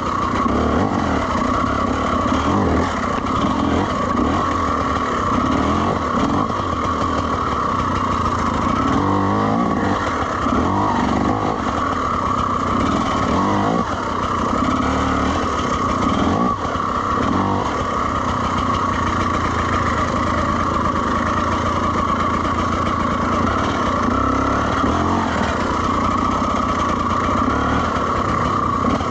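Two-stroke enduro dirt bike engine running continuously, its pitch rising and falling again and again as the throttle is worked on the trail.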